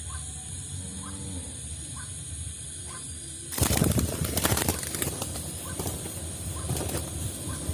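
A dove flapping its wings hard in a sudden flurry about three and a half seconds in, with lighter fluttering after it, typical of a bird caught in a bamboo trap. Before the flurry, a short call repeats about once a second.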